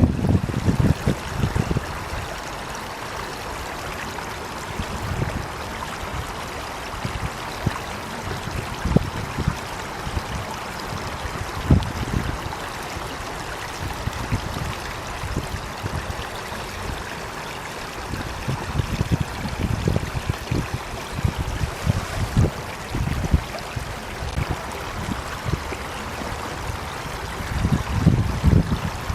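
Water flowing steadily like a stream, a continuous rushing hiss, with irregular low rumbles that come and go and are heaviest near the start and end.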